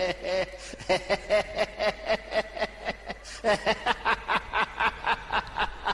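A man laughing in quick, even bursts of voice, about five or six a second, pausing briefly about halfway through.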